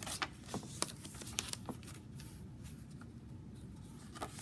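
Paper rustling with short crisp clicks as the pages and paper pockets of a handmade junk journal are handled and turned. The rustles come in a quick cluster during the first second and a half, with a couple more near the end.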